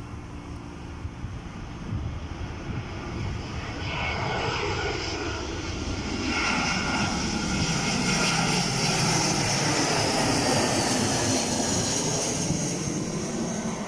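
Airbus A320ceo jet airliner on its landing approach, its engine noise swelling from about four seconds in to loudest in the middle, then easing slightly near the end. A whine can be heard shifting in pitch as it passes.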